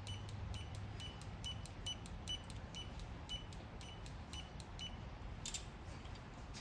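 Ratchet wrench clicking in an even run of about four clicks a second as the handle swings back between pulls on an engine head bolt. The clicking stops about three-quarters of the way through, followed by a short scrape.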